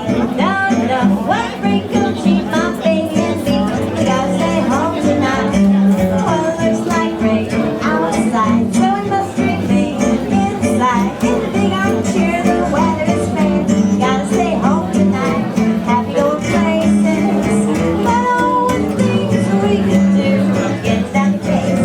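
Small swing jazz band playing live: plucked strings and bass keep a steady beat under wavering melodic lead lines.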